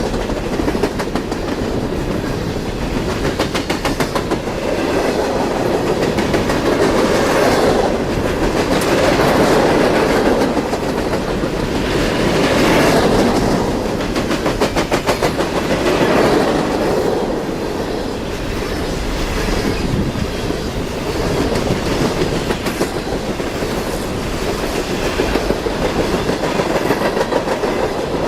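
A train's cars rolling past, a steady rumble with groups of quick clicks as the wheels cross rail joints, swelling and easing every few seconds.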